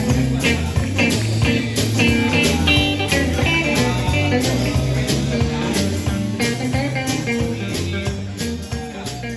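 Band music: guitar over bass and drums with a steady beat, beginning to fade out near the end.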